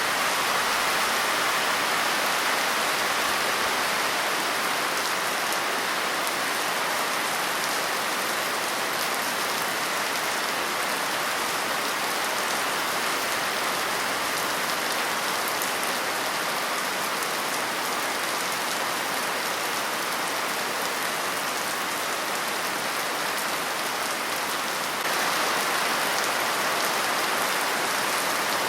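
Steady rain falling, a dense even hiss of many drops, growing a little louder near the end.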